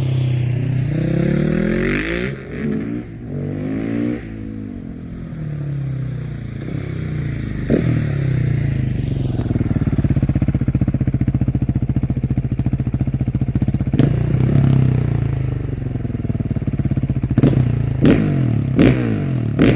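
KTM 690 SMC R single-cylinder supermoto engine under way, its pitch rising and falling as it revs up and drops back through the gears. Several sharp cracks cut through, a few of them close together near the end.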